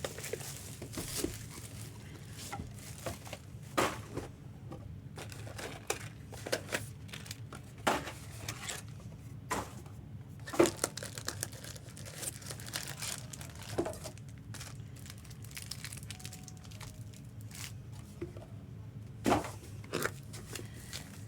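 Plastic and foil packaging of Pokémon trading card products being torn open and crinkled, in many irregular sharp rustles and clicks over a steady low hum.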